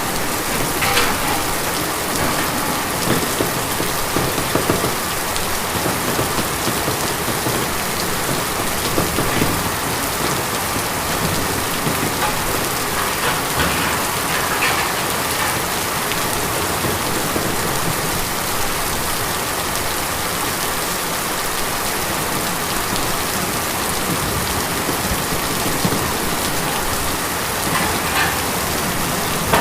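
Rain falling on tin: a dense, steady patter, with a few louder drops standing out now and then.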